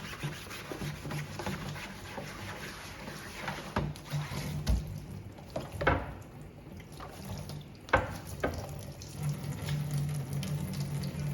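Kitchen tap running into a sink, with a few knocks from things handled in it.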